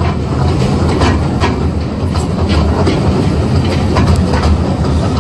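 Zoo train running along the track, heard from aboard a passenger car: a steady low rumble with irregular clicks and knocks from the wheels on the rails.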